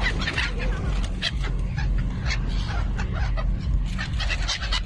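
A flock of birds crowding around scattered popcorn, calling over and over in short, sharp cries, over a steady low rumble.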